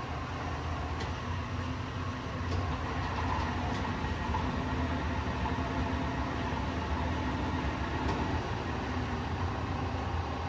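Cyclematic Turn-Pro CTS-27 turret lathe running steadily with its spindle turning in reverse at high speed. It makes a constant low hum with a faint steady whine above it.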